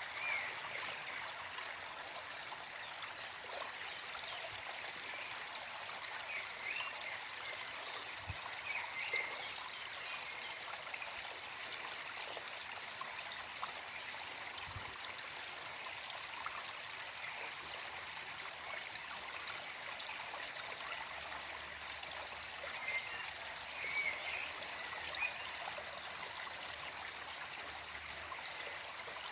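Small forest stream flowing and trickling steadily, with birds chirping in short calls here and there over the water.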